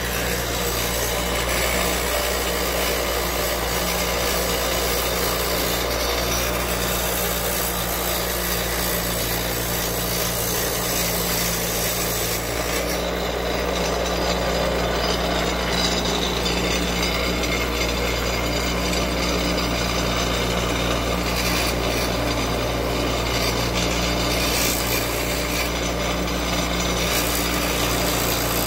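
A power tool runs steadily with a motor hum, grinding or sanding away material on a handmade knife without pause.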